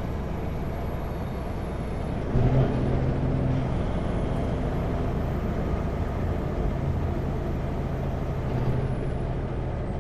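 Kenworth W900L semi truck's diesel engine running while driving slowly, with a brief louder burst a little over two seconds in, after which the engine's hum grows a little stronger for a few seconds.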